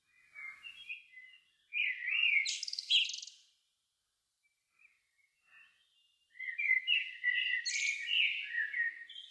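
A songbird singing two warbling phrases, one starting about two seconds in and a longer one starting about six seconds in. Each phrase has a brief high twitter partway through.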